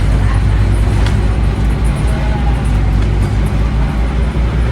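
Scania N270UD OmniCity double-decker bus's five-cylinder diesel engine running steadily, a loud low drone.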